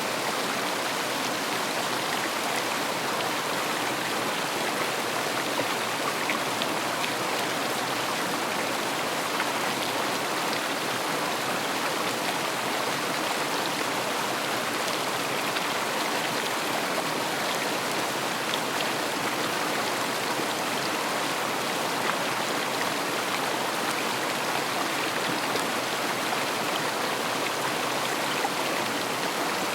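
River water flowing, a steady even rush with faint small splashes in it.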